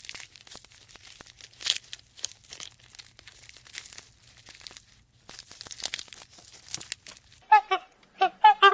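Dry crackling and rustling with scattered clicks, over a faint low hum. About seven seconds in, an animal starts a run of short, loud honking calls, about two a second.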